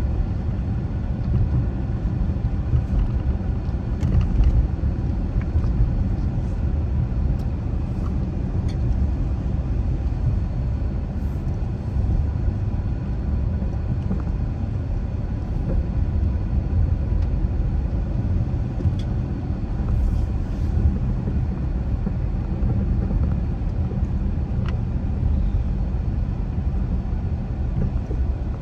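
Car driving at steady speed: a continuous low rumble of tyre, road and engine noise with no change in pace.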